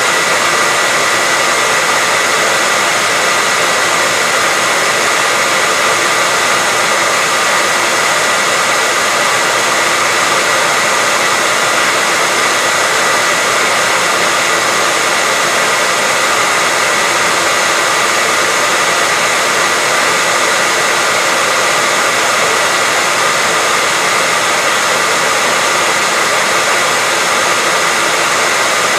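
Hairdryer running steadily, a constant rush of air with a steady high whine from the motor and fan.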